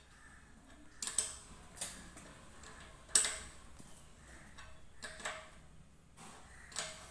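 Scattered light clicks and knocks of metal parts being handled and fitted on a washing machine's drum shaft, about six in all, the sharpest about three seconds in.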